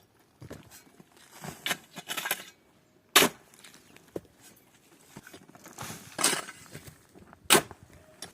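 Two sharp knocks, about four seconds apart, with bouts of rustling and scraping between them.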